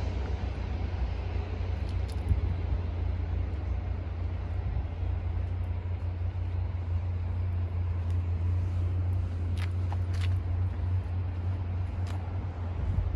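Honda Accord engine idling steadily with a low, even hum, a few brief high-pitched chirps sounding over it.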